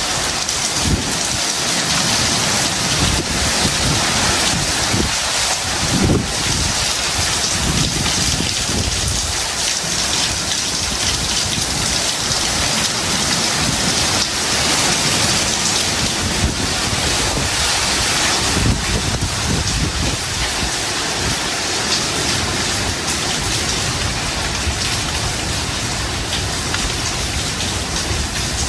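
Heavy tropical rain pouring steadily in a storm, with an irregular low rumble of gusts underneath.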